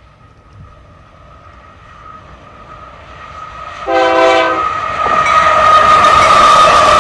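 Union Pacific diesel locomotives leading a grain train, growing louder as they approach, with one short horn blast about four seconds in. The locomotives' engines and the wheels on the rails then run loud as they pass close by, under a steady high ring.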